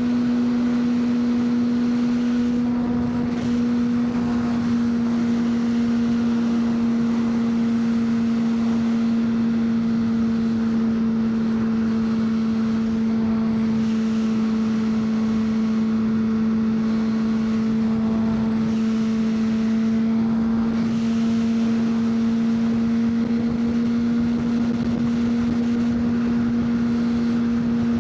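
2003 Honda CBR600RR's inline-four engine running at steady revs while riding, its exhaust note holding nearly constant with only a slight sag and rise near the end.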